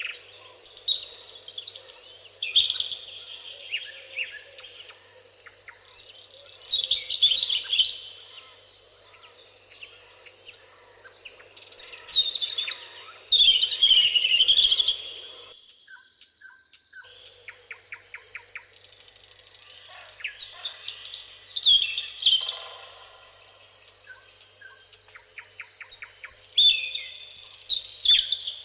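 Several songbirds singing and calling over one another in warbling phrases, short chirps and fast rattling trills, over a steady thin high tone and a soft low background hiss. The background cuts out abruptly for a moment about halfway through.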